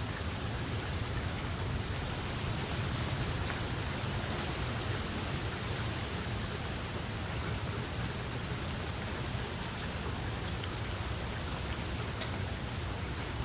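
Steady rain falling, an even hiss with a low rumble underneath and a few sharper drop ticks here and there.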